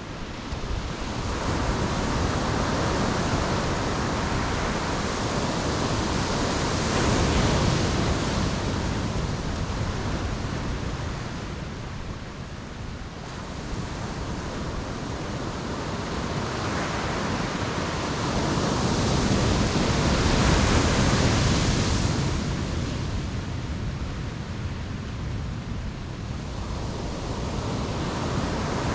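Ocean waves breaking on a beach, the surf swelling to a crash about seven seconds in and again about twenty seconds in, then building once more near the end.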